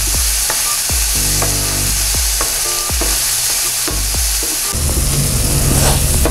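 Chopped potato, tomato and onion sizzling in hot oil in a frying pan while a spatula stirs them, scraping and tapping against the pan every half second or so.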